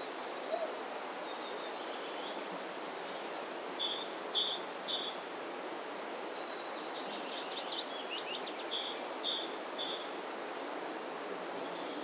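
Songbirds calling over steady wind noise: three short high notes, then a falling trill, then three more short notes.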